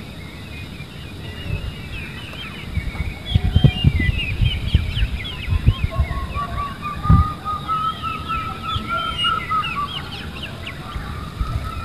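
Birds chirping with many short, quick calls, joined about halfway by one long wavering tone that carries on, over a few low thumps and rumbles in the middle.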